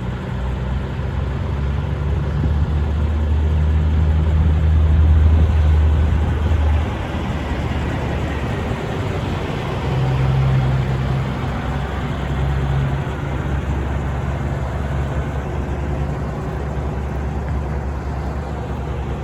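Diesel engine of a 2016 International LoneStar heavy truck running. It swells louder between about two and seven seconds in, then settles back to a steadier, lower run.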